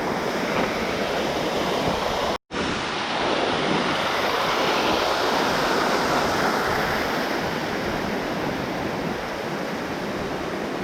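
Steady rush of falling and tumbling water from a mountain waterfall or stream, with a moment of silence about two and a half seconds in.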